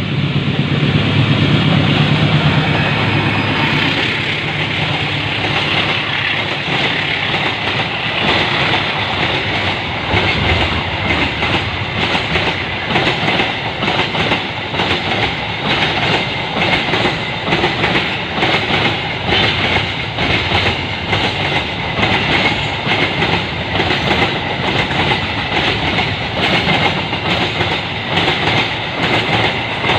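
Train passing close by: a low engine hum in the first few seconds, then a steady, rhythmic clickety-clack of carriage wheels over the rail joints.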